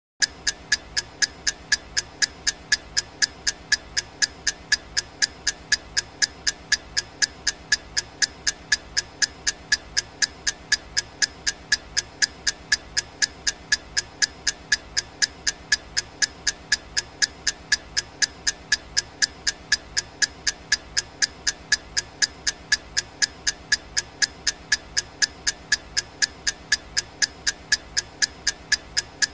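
Clock-style ticking sound effect for a countdown timer: sharp, evenly spaced ticks at about two a second, starting abruptly as the countdown begins.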